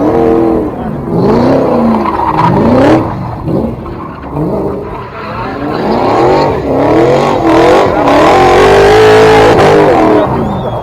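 A car engine being revved repeatedly, its pitch sweeping up and falling back again and again, then held high for several seconds near the end.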